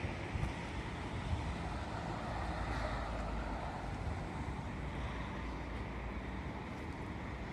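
Honda CB400 Super Four's inline-four engine running steadily through a Trickstar aftermarket exhaust muffler, a low even exhaust note.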